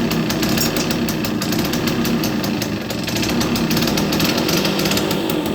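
Bajaj M80's small single-cylinder engine running and being revved, a rapid, rattly exhaust beat that swells and eases a little.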